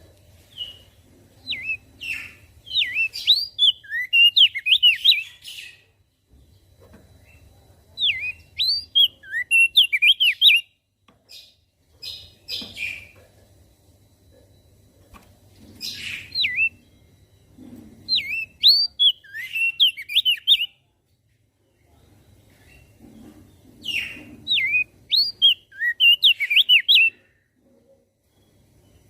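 Crested white-eye (opior jambul) singing in about five bursts of rapid, sharp, sweeping whistled notes, each lasting a few seconds, with short pauses between them.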